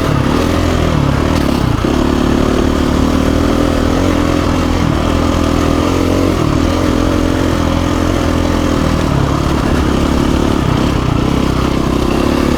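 2017 KTM 350 EXC-F's single-cylinder four-stroke engine running under a working throttle while riding, its pitch dipping and rising several times.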